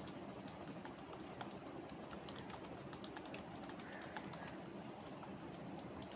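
Typing on a computer keyboard: a quick, uneven run of key clicks that thins out after about four seconds, over a steady low background hiss.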